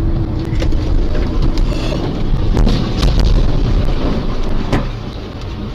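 Loud rumbling noise from a moving vehicle, with wind buffeting the microphone and several sharp knocks and bangs scattered through it.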